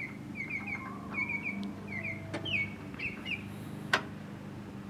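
A bird calling: a run of short, quick down-slurred chirps in groups of two or three over the first three and a half seconds, above a low steady hum. A single sharp click comes near the end.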